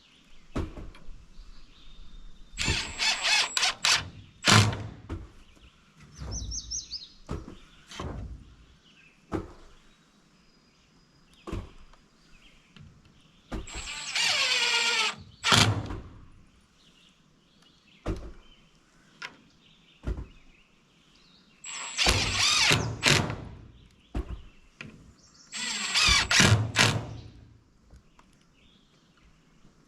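Cordless drill driving screws in several spurts of a second or two, the motor whining and winding down in pitch after each, with small knocks between.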